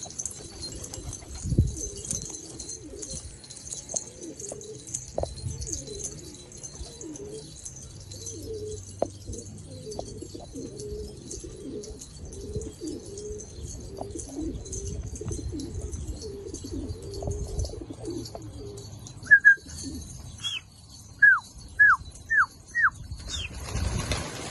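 Homing pigeons cooing continuously, several birds overlapping. Near the end a handful of sharp, falling high-pitched chirps cut in over the cooing.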